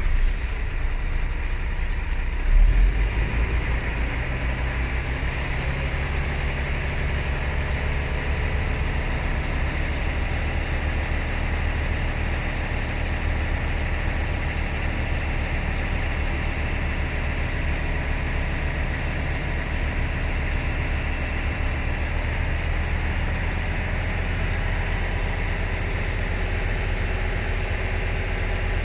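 Volvo B9R bus's diesel engine running steadily, with a brief louder bump about three seconds in.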